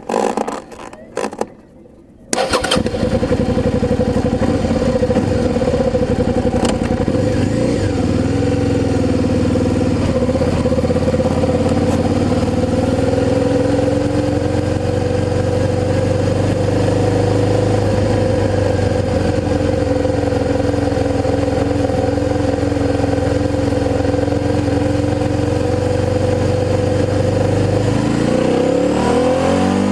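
Suzuki SV650's V-twin engine with a G&G aftermarket exhaust catching and starting about two seconds in, then idling steadily. Near the end it revs, its pitch rising.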